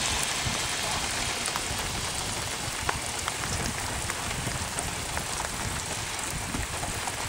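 Steady rain falling, an even hiss with many sharp single drops ticking irregularly, one louder drop tick a little under three seconds in.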